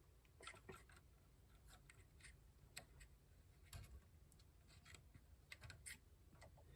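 Near silence with faint, scattered small clicks: hands unplugging the wire connectors from a Bambu P1S 3D printer's hot end.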